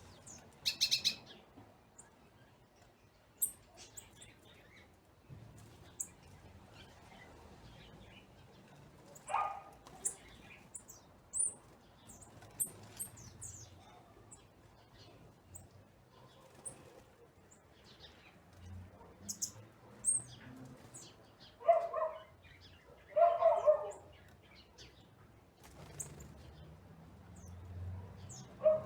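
Assorted wild birds chirping and calling in short, scattered bursts, several species mixed together, with two louder, lower calls about three-quarters of the way through.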